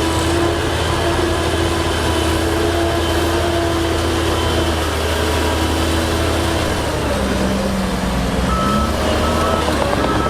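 Heavy diesel machinery engine running steadily, its pitch shifting a little as it works. Near the end a reversing alarm starts beeping at about one beep a second.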